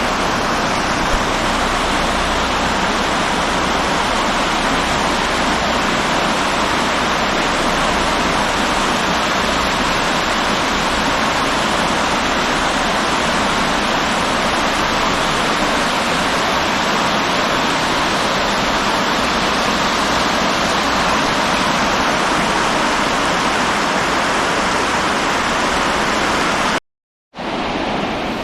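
Fast-flowing river water rushing steadily, a dense, even whoosh like a cascade or weir. About 27 seconds in it cuts out abruptly for half a second, then resumes slightly quieter.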